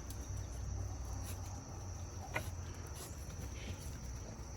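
Steady high-pitched insect chirring in the background over a low rumble, with one brief faint click about halfway through.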